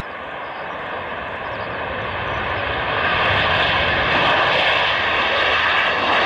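B-2 Spirit stealth bomber's four General Electric turbofan engines: a steady jet rush with faint whining tones in it, growing louder over several seconds as the aircraft approaches.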